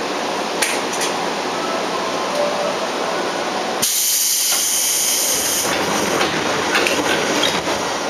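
Inside the cabin of a Seibu 2000 series electric train standing at the platform: steady equipment hum, then a loud hiss of compressed air about four seconds in that lasts about two seconds, with a low rumble coming up after it.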